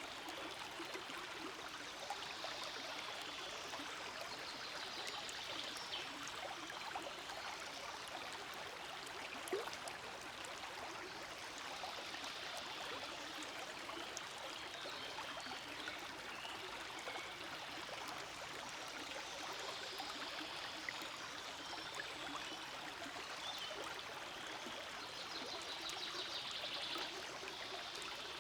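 Forest stream flowing steadily over stones, a continuous babbling and trickling of water.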